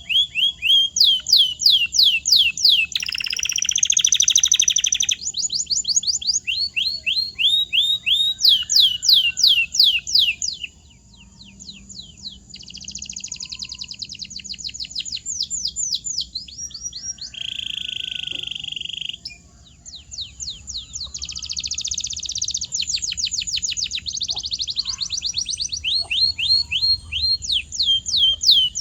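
Domestic canary singing: a run of fast trills, each a rapid string of repeated falling notes, one phrase straight after another. A few buzzy rolls and a steadier held trill are mixed in, with brief pauses about a third of the way in and again about two-thirds in.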